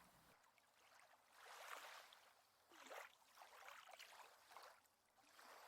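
Near silence with very faint lapping water, rising in a few soft swells.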